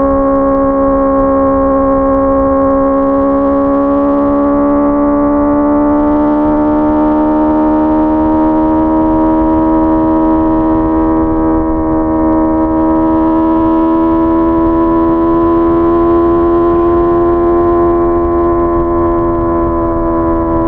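Honda CBR 650R's inline-four engine pulling steadily at high revs in one gear, its pitch rising slowly and smoothly, then levelling off and easing slightly near the end, with wind and road rumble underneath.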